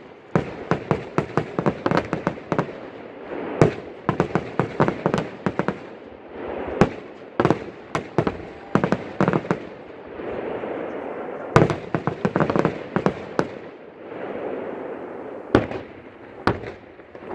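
Fireworks display: sharp bangs and rapid crackling volleys, with single louder cracks about four, twelve and sixteen seconds in.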